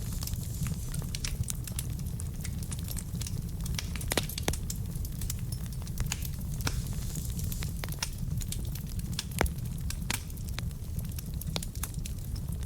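Wood fire burning in a fireplace: a steady low rumble of flame with dense, irregular crackles and pops from the logs, a few sharper pops standing out.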